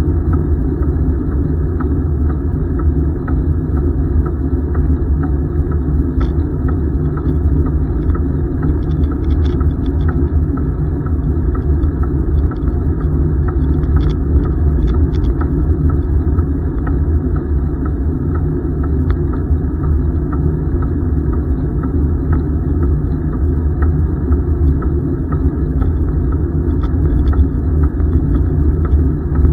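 Steady low rumble of wind buffeting the microphone and tyres rolling during a bicycle ride.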